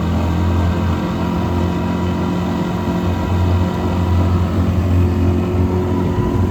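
Boat motor running steadily at low throttle, a constant droning hum while the flat-bottom duck boat cruises.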